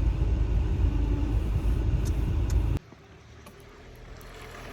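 Steady low rumble that cuts off abruptly about three seconds in, followed by a much quieter stretch that slowly grows louder.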